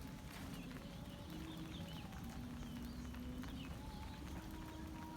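Rain falling, with many close drops tapping, under a few faint drawn-out tones and short high chirps in the background.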